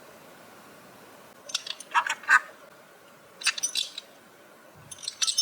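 Small bell jingling in two short bursts of metallic clinks, about two seconds in and again near four seconds, with more clinking starting near the end.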